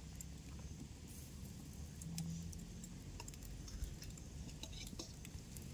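Wind buffeting the microphone as a low rumble, with faint scattered crackles from a wood bonfire.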